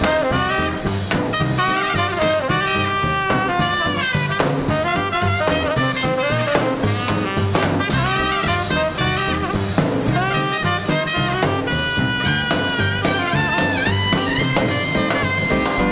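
Small swing band playing live without vocals: trumpet and saxophone lines over piano, bass and drums, ending on a long held horn note near the end.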